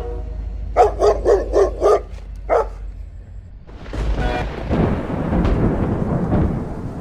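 A dog barking, about six quick barks in a little under two seconds, followed from about four seconds in by a low rumbling noise.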